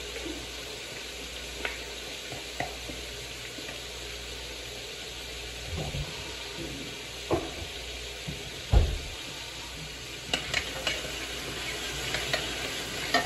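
Minced garlic and chopped onions sizzling in hot olive oil in a stainless steel stockpot, a steady hiss. A spoon stirs and knocks against the pot now and then, the loudest knock about nine seconds in and several more after ten seconds.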